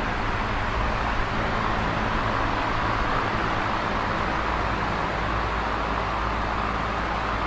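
Electric fan running steadily: an even rush of air from the blades with a constant low hum underneath.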